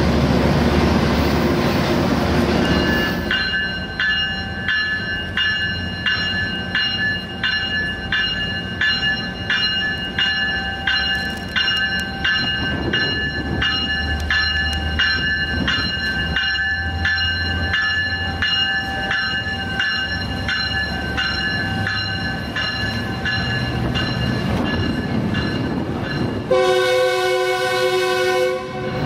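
Passenger train rumbling past for about three seconds, then a Metrolink push-pull train departing: a bell rings steadily, almost twice a second, over the low rumble of the locomotive. Near the end the train's horn sounds one long chord of about two and a half seconds.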